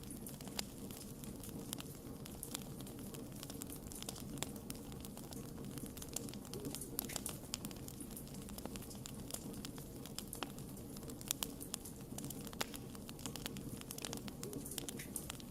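Wood campfire burning, a steady low rumble of flames with frequent irregular sharp crackles and pops from the burning wood.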